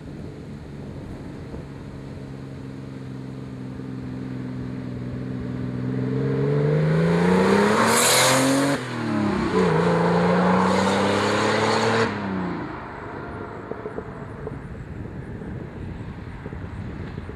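1987 Porsche 930 Turbo's air-cooled turbocharged flat-six running through a dual-outlet stainless Maxflo muffler. It accelerates hard with rising pitch, dips briefly at a gear change about nine seconds in, pulls again, then drops back suddenly as the throttle is lifted about twelve seconds in.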